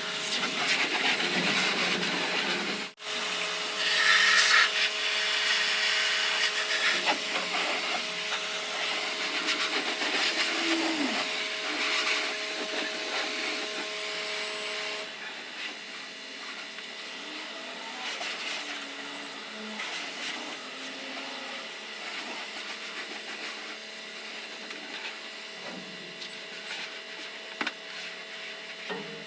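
Self-service car wash equipment running with a steady hiss over a machine hum. The hum cuts out about halfway through, and the hiss swells louder for a couple of seconds early on.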